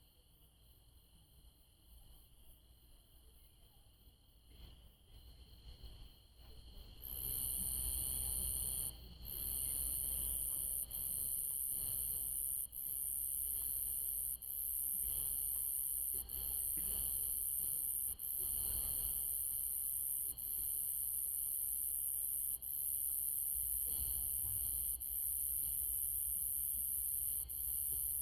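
Night insect chorus: steady high cricket trills, joined about seven seconds in by a louder, very high-pitched insect buzz that comes in long pulses of about two seconds with short breaks between them.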